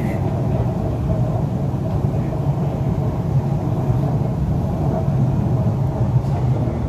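MTR East Rail Line R-Train electric multiple unit running along the line: a steady rumble of wheels on rail and running gear.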